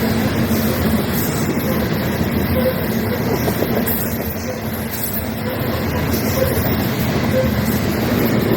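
Freight train rolling past: a steady, loud rumble of cars on the rails with a constant low hum underneath.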